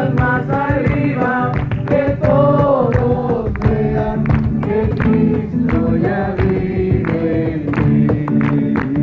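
A group of voices singing a worship song together over instrumental accompaniment with a steady percussive beat.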